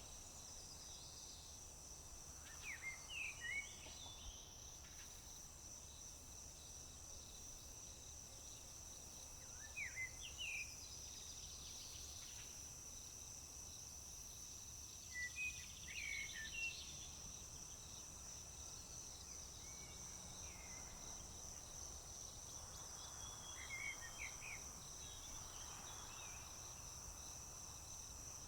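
A steady high-pitched chorus of crickets with a songbird singing short phrases four times, over a low steady background hiss.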